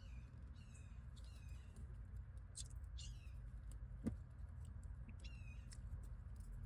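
Faint, short, high-pitched bird chirps, each falling in pitch, repeating irregularly several times, with a single sharp click about four seconds in.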